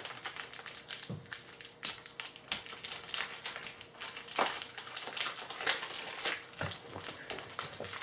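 Trading card pack wrapper crinkling and being torn open, with the cards inside handled: a dense run of irregular crackles and clicks.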